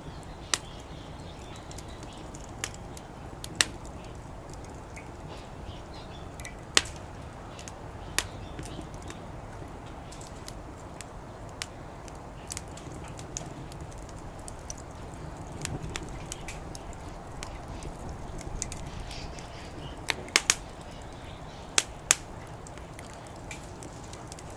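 Wood fire crackling in a fire pit: sharp, irregular pops and snaps, a few louder ones close together near the end, over a low steady background noise.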